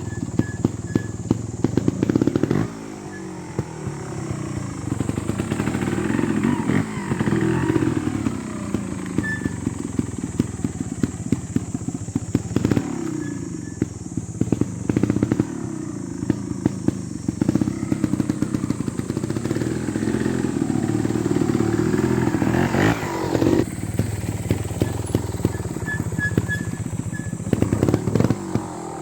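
Beta Evo 300 trials motorcycle engine running at low speed, revved up and let fall again and again as the bike is ridden through practice obstacles, with frequent sharp clicks and knocks.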